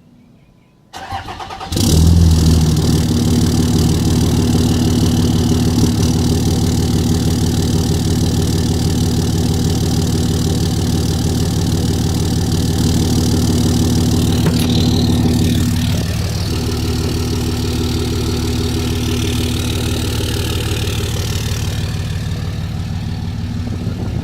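2006 Cummins 5.9-litre inline-six turbodiesel, with a 5-inch exhaust, cranking briefly and firing up about a second or two in, then idling steadily. The idle eases down a little about two-thirds of the way through.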